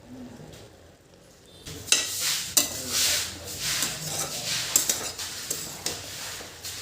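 A spatula stirring and scraping food that is frying and sizzling in a pan. It starts about two seconds in, with repeated scrapes and sharp clinks against the pan.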